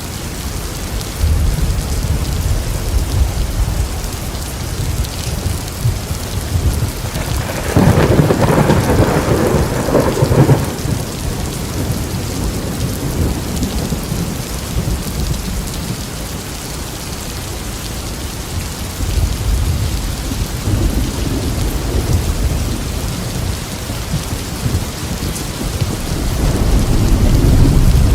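Rain falling steadily through a thunderstorm, with rolling thunder: a loud peal about eight seconds in lasting some three seconds, then rumbling again that builds toward the end.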